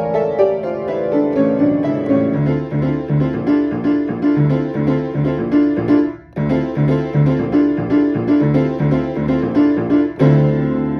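Piano playing a fast, driving piece over a repeated pulsing bass figure. The music breaks off for a moment about six seconds in, then picks up again, with a loud chord just after ten seconds.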